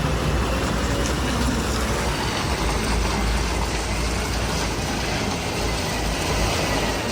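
Heavy vehicle in motion: a steady low rumble and road noise, with a faint high squeal that comes in about two seconds in.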